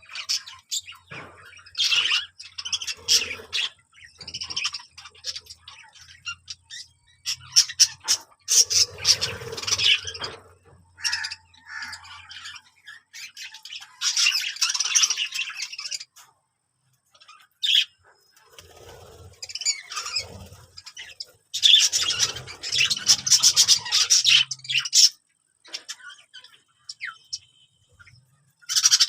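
Birds chirping and squawking in irregular bursts with short pauses between.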